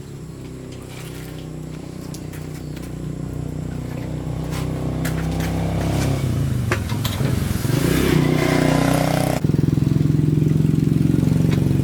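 The YLHX 1500 generator's small engine running, its speed wavering and growing louder over several seconds. About nine seconds in it switches abruptly to a steady, even run.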